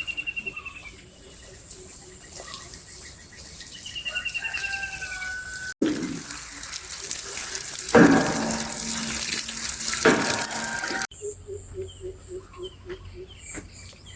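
Birds chirping and trilling over a quick run of clucks. Then a few seconds of running, splashing water, loudest near the middle. Then rapid clucking again, about four notes a second.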